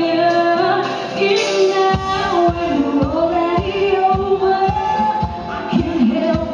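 A woman singing live with an orchestra. A steady drum beat comes in about two seconds in under the held vocal line.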